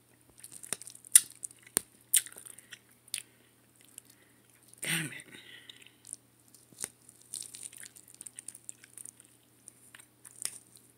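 Close-up chewing and smacking of a mouthful of chicken and rice, broken by a series of sharp clicks of a fork against the plate as it picks at the chicken.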